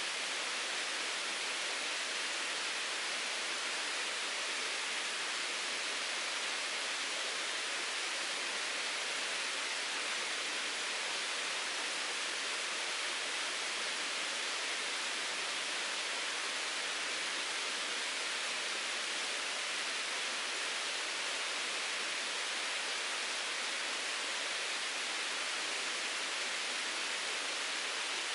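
Mountain stream flowing over rocks: a steady, even rush of water that does not change.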